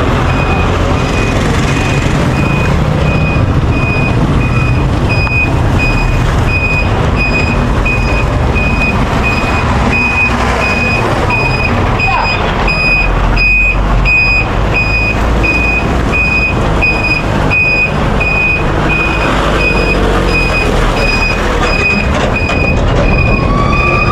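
Truck's reversing alarm beeping steadily, a little under two high beeps a second, over the low rumble of engines and traffic.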